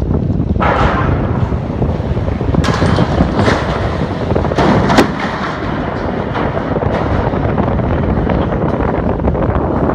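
Loud rumble of a passing train with wind buffeting the microphone, broken by several sharp bangs, the loudest about five seconds in.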